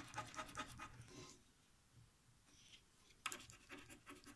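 Faint scratching of a lottery scratch card's silver coating: a run of quick short strokes in the first second or so, then another burst about three seconds in.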